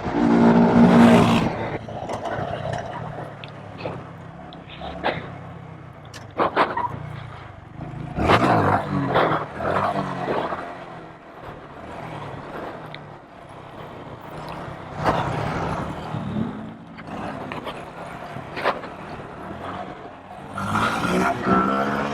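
Small mini bike engines running while riding, the engine note rising and falling with several louder revs.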